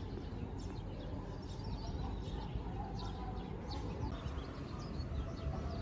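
Small birds chirping repeatedly in short quick calls, over a low steady rumble.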